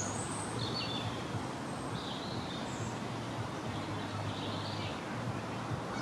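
Birds chirping, several short high calls every second or so over steady background noise and a low hum.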